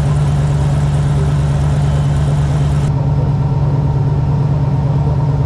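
Ultra4 race car's engine idling steadily, a deep even drone with a pulsing rumble beneath it.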